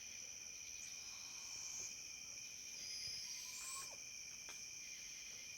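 Steady night insect chorus of crickets, with a few faint, thin, high squeaking calls rising in pitch about a second and a half and three seconds in, from barred owls.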